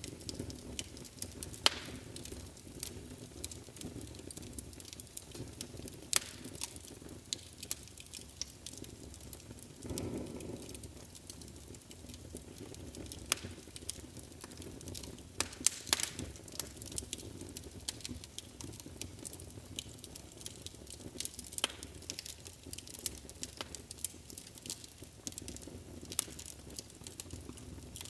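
Wood fire burning in a fireplace: irregular crackles and sharp pops over a low steady rumble of the flames, with a brief soft whoosh about ten seconds in.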